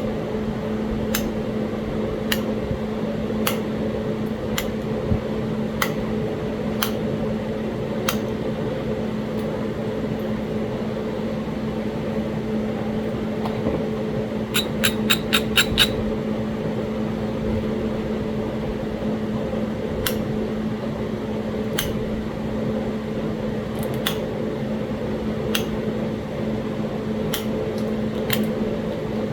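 Sharp clicks of a copper knapping tool working an edge of Talahata quartzite, scattered every second or two, with a quick run of about six clicks around the middle. A steady hum runs underneath.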